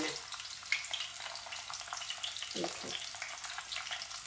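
Stuffed bitter gourds (karela) sizzling as they shallow-fry in hot oil, a steady crackling hiss. Two brief soft knocks come a little after two and a half seconds in.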